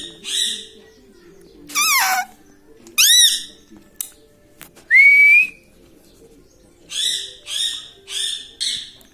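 Pet Indian ringneck parakeet calling: short high-pitched harsh calls and whistled notes with pauses between, one call falling in pitch, one a rising whistle, and a run of four quick calls near the end.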